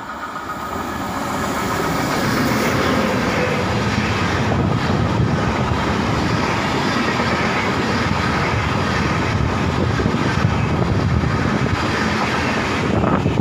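Electric-hauled express passenger train passing close by at speed: the noise builds over the first two seconds as the locomotive arrives, then holds as a steady rush of wheels on rail while the coaches go by.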